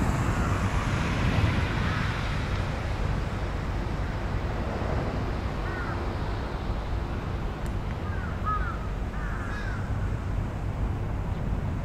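Steady low rumble with a few short bird calls over it: a pair about halfway through, a cluster of three or four a little later, and another near the end.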